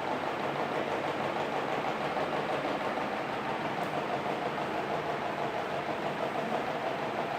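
CEC Deluxe 48-inch straight-bladed ceiling fan running, a steady, even hum.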